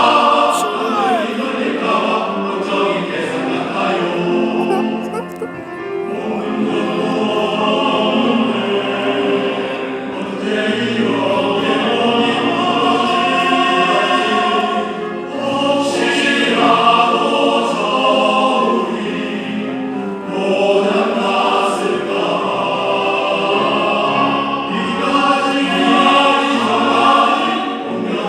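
Men's choir singing in full harmony, in long phrases with short breaks between them.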